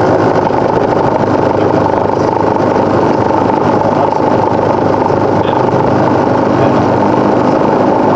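Cessna 172's single piston engine and propeller running steadily, a constant loud drone heard inside the cockpit.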